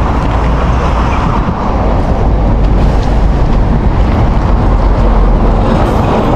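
Steady noise of road traffic: vehicles running along a busy highway.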